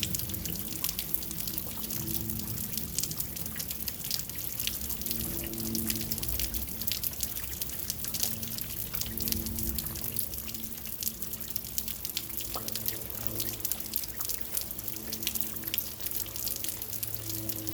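Rain falling: a steady wash with many separate drops and drips clicking. A low hum comes and goes underneath.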